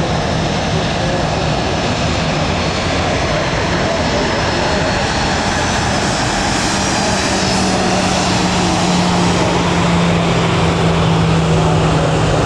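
Jet airliner engines running loud and steady: a broad rushing noise over a low hum, building slightly louder in the second half.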